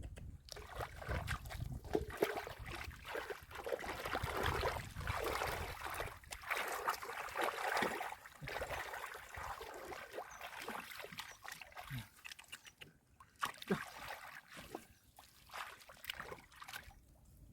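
Shallow muddy water splashing and trickling in irregular bursts, with scattered small knocks and splashes; busier in the first half, thinning out later.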